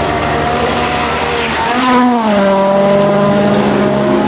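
Rally car engine running under load. About two seconds in, its pitch rises briefly and then falls to a lower steady note.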